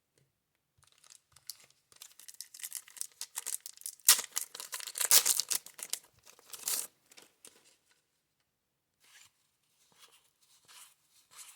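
Wax-paper wrapper of a baseball card pack being torn and crinkled, crackling hardest a few seconds in, with lighter crinkles near the end.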